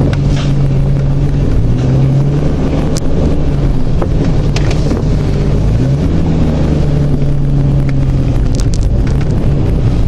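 1991 Jeep Cherokee's 4.0-litre straight-six running on the move, its pitch rising twice and settling back near the end. No clunks from the front end while steering: the worn front-end parts have been fixed.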